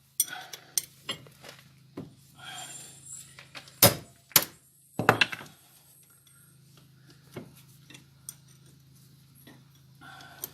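Metal hand tools clinking and clanking against steel parts, with a few sharp metallic knocks about four to five seconds in, over a faint low steady hum.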